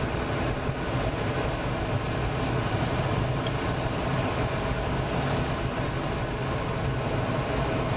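Steady droning roar of a jet aircraft, a low hum under an even hiss that holds level throughout.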